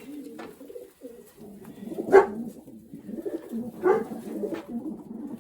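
Racing pigeons cooing in a loft, a steady low warbling murmur, with two louder, sharper sounds about two and four seconds in.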